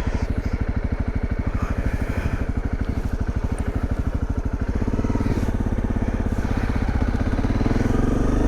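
A 2017 dirt bike's engine runs under way. Its even, rapid firing pulses smooth into a denser, slightly louder note about five seconds in as the revs rise.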